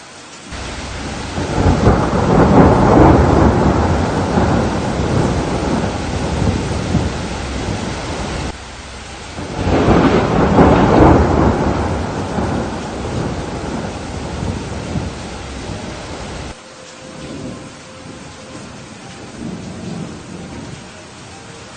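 Thunder rumbling over steady rain. A long roll swells about a second in and stops suddenly near the middle. A second roll swells just after and cuts off suddenly about three-quarters of the way through, leaving only the rain.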